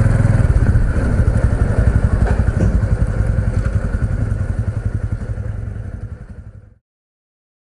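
Honda CT125 Hunter Cub's small single-cylinder engine puttering at low revs with an even pulse, as the bike rolls slowly. The sound fades out about two-thirds of the way through.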